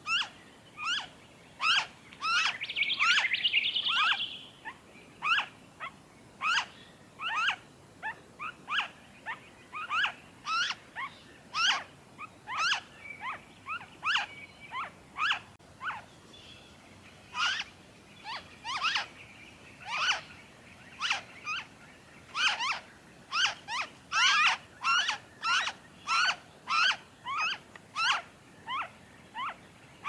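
Noisy friarbird nestlings begging in the nest: short, sharp sweeping calls repeated about twice a second. A louder burst of rapid chattering comes about two to four seconds in.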